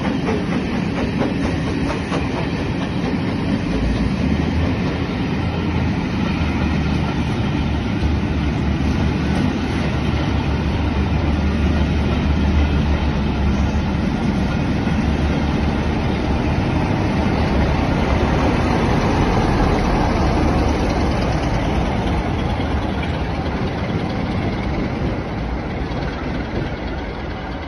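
Passenger coaches rolling past on the rails with a steady rumble and clickety-clack. A low engine hum runs through the middle as the locomotive on the rear of the train goes by. The noise fades near the end as the train draws away.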